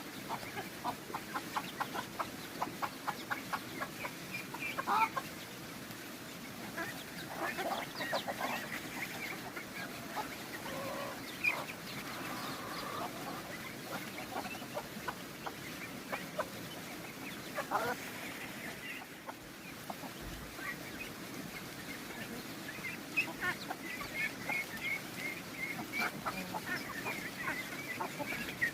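Chickens clucking, with scattered short calls and a quick run of notes in the first few seconds.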